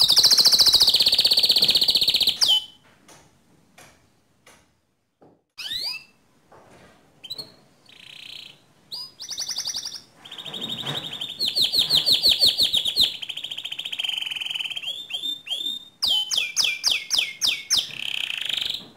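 Domestic canary singing in phrases of fast, high trills (rolls). A loud trill opens, then there are a few seconds of near quiet before the song picks up again with long rapid rolls.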